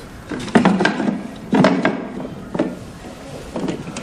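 Knocks and clatter of the cover being handled and fitted back over the main circuit board of a 3D sublimation vacuum heat press, in a few separate bursts.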